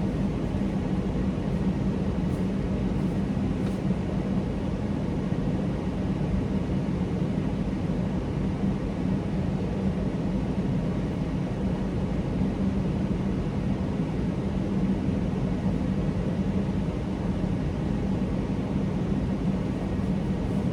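Semi truck's diesel engine running steadily, a low, even drone with no revving.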